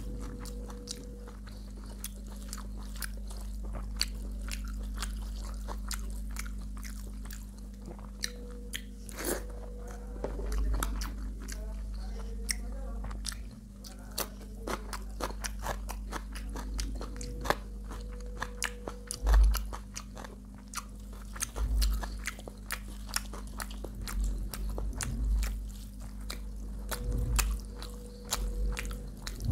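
A person chewing and biting food close to the microphone: many quick, irregular clicks and crunches, with a few heavier thumps, over a steady low electrical hum.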